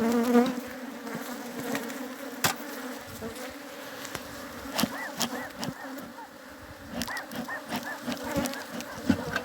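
Honeybees from an opened hive buzzing in a dense, steady hum, with single bees swooping close by in rising and falling whines and a few sharp clicks. The colony is agitated and very defensive.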